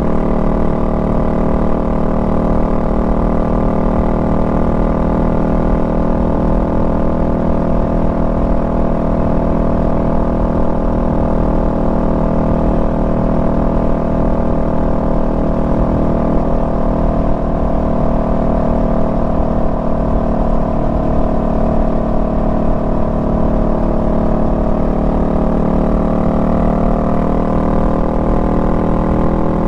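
Honda Rebel 500's parallel-twin engine running steadily at cruising speed, its pitch sagging slightly late on and picking up again near the end.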